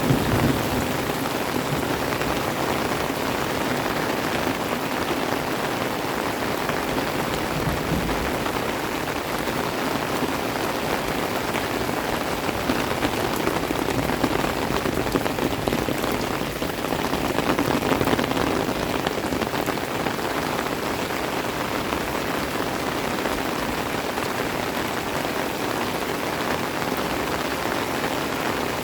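Steady rain falling and pattering on surfaces, an even hiss that swells slightly about two thirds of the way through.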